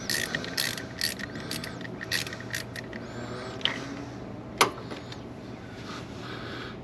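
Hand tools clicking and clinking against metal during engine work, a run of quick clicks followed by one sharp click about four and a half seconds in, over a steady low hum.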